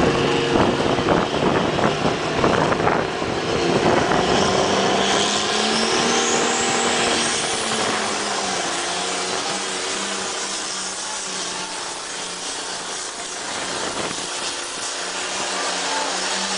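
Tractor-pull tractor's engine running hard as it drags the weight sled down the track, a loud rough crackle that eases off over the second half, with a high whine rising in pitch about five to eight seconds in.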